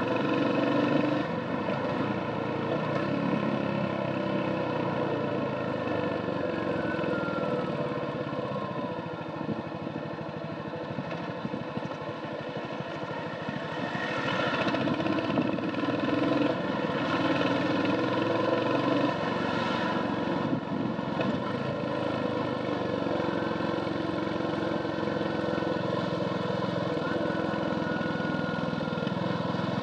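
Royal Enfield Hunter 350's single-cylinder engine running through its stock exhaust while riding. The engine note is steady, dips a little for a few seconds around the middle, then picks up again.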